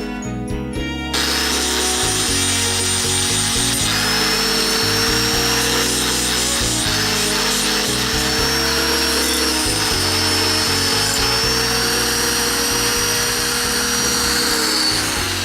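Electric buffing tool running against a motorcycle muffler's metal to polish it, a steady rushing hiss with a steady whine, starting about a second in.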